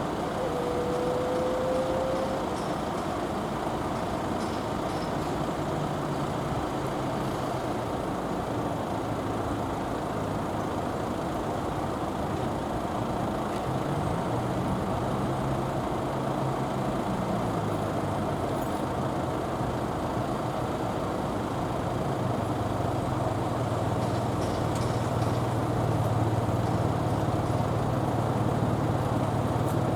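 Road traffic with heavy vehicles such as trucks and buses, their engines rising and falling in pitch and a heavy engine growing louder near the end. A thin squeal sounds in the first two seconds.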